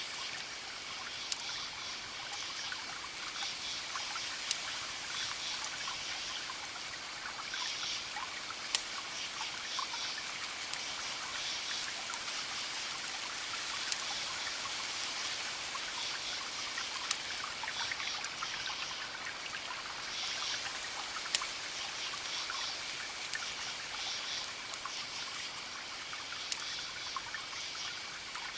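Campfire crackling, with sharp wood pops scattered throughout, the loudest about nine seconds in and again about twenty-one seconds in. Over it, crickets chirp in repeated pulsed trains and a steady high insect trill holds throughout.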